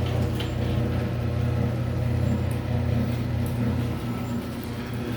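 Overhead garage door closing under its electric opener: a steady motor hum with a few light clicks. It runs smoothly, with no screech on the way down.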